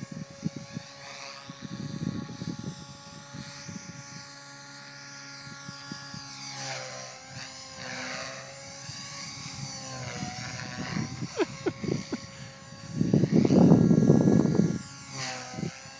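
Radio-controlled helicopter flying, its motor and rotor giving a steady whine that dips and comes back up in pitch a couple of times as it manoeuvres. About thirteen seconds in, a loud rush of low noise lasts a second or two.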